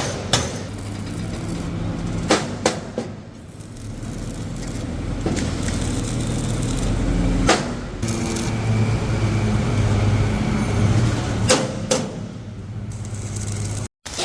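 Steady low machine hum with several sharp metallic knocks scattered through it. The sound cuts out completely for a moment near the end.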